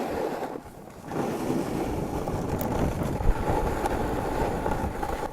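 Wind rushing over the microphone during a downhill snowboard run. The rush is steady and drops away briefly about half a second in.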